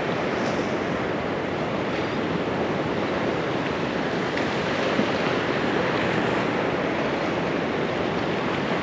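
Gulf surf washing steadily onto the beach, with wind on the microphone.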